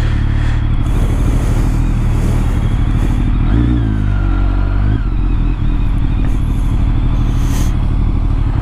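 BMW K1200R Sport's inline four-cylinder engine running at low speed in city traffic. The revs climb for about a second and a half from around three and a half seconds in, then drop back sharply.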